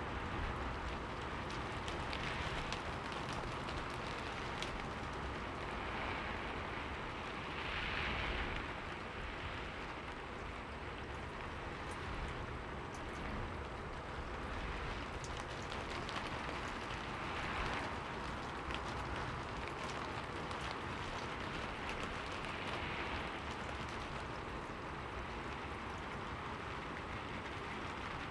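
Rain falling on a window: a steady hiss of rain with fine ticks of single drops, swelling gently every few seconds.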